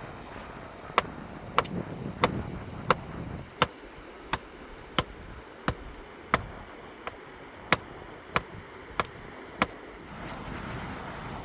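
A series of about fourteen sharp, hard strikes at an even pace of roughly one every two-thirds of a second, like steady hammering or chopping, over a steady background rush.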